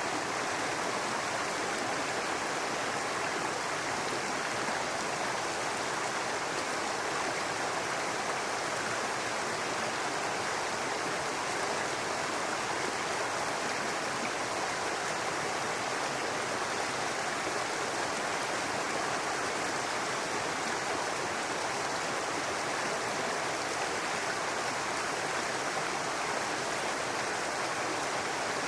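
Small woodland brook babbling steadily over rocks, a constant rush of running water.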